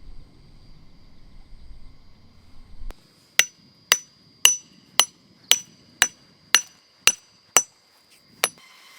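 Ten sharp metallic strikes, about two a second and evenly paced, each with a brief high ring; the last comes after a slightly longer gap. A low rumble before them stops abruptly.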